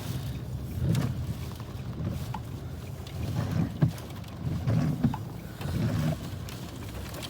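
Sandstorm wind gusting against the microphone in uneven, low rumbling swells, with a few faint ticks.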